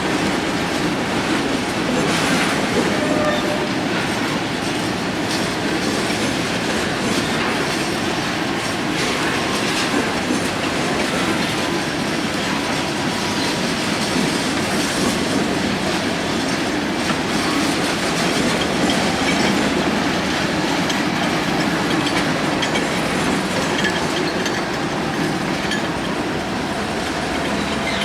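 Union Pacific freight train cars rolling steadily past, wheels clicking over the rail joints, with a faint thin wheel squeal briefly around ten seconds in.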